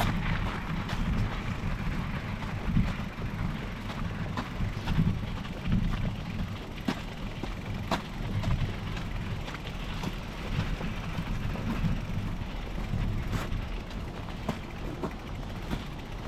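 Specialized Epic Pro mountain bike being ridden along a trail: steady low rolling noise with frequent small clicks and rattles.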